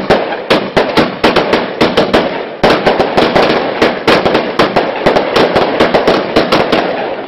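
Consumer firework barrage (multi-shot cake) firing a rapid string of sharp bangs, about four a second, overlapping with a continuous haze of noise between the shots.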